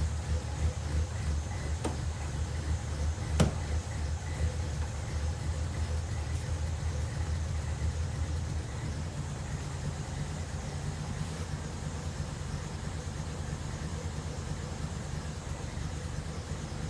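Toyota AE86's four-cylinder engine idling steadily, with a sharp click about three and a half seconds in.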